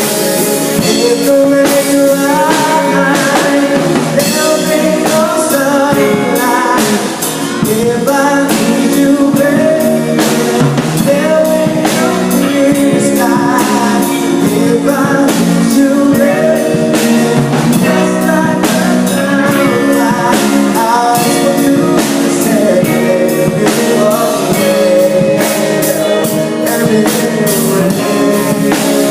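A band playing a pop-rock song: drum kit and guitar, with a melodic line over the top.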